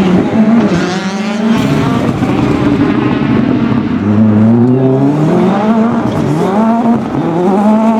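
Rally car engine at full throttle on a stage, its pitch climbing and dropping sharply several times as it changes gear.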